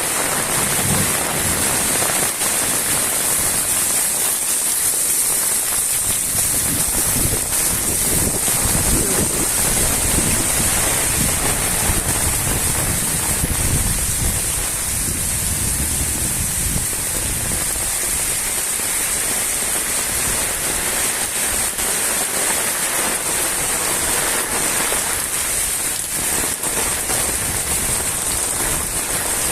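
Steady, fairly heavy rain falling and pattering on surfaces, an even hiss with a low rumble that comes and goes.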